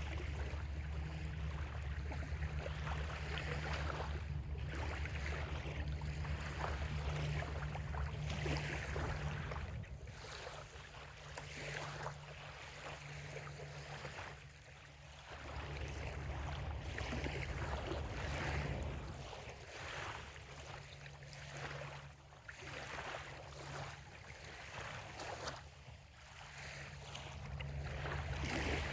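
Small bay waves lapping and washing on a sandy shore in repeated soft surges, over a low rumble that fades out after about ten seconds and comes back near the end.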